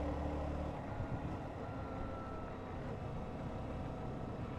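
Honda CBR125 motorcycle's single-cylinder engine running on the road, with a rushing wind and road noise. The steady engine note drops away about a second in, leaving mostly the rushing noise.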